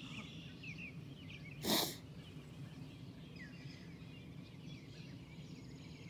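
Faint outdoor pond ambience with small birds chirping now and then, and one short, loud puff of noise about two seconds in.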